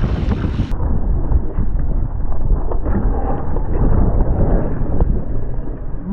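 Wind buffeting the microphone with a steady low rumble and scattered small knocks from a mountain bike rolling over a dirt trail.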